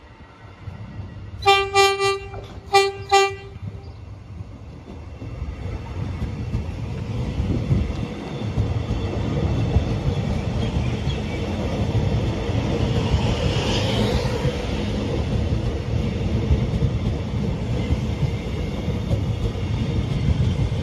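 Alstom X'Trapolis electric train sounding its horn in a series of short toots, in two quick groups. The train then runs past close by with a building, steady rumble of wheels on the rails.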